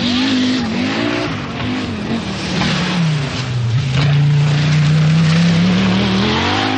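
Rally car engine running hard. Its pitch wavers for the first few seconds, drops about three seconds in, then climbs steadily as the car accelerates.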